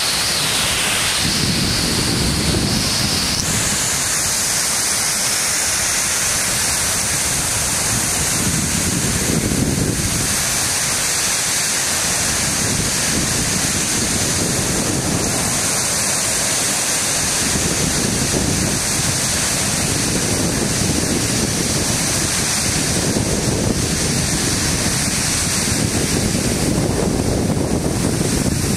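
Heavy downpour in a cloudburst: a steady loud hiss of rain, with gusts of wind buffeting the microphone in low rumbling surges every few seconds.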